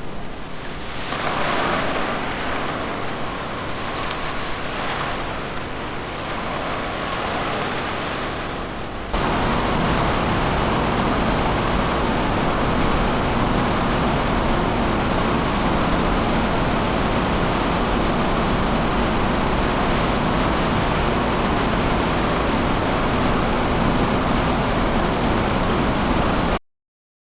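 Rushing floodwater: a steady noise of fast-flowing water that turns suddenly louder and fuller about nine seconds in, then cuts off abruptly just before the end.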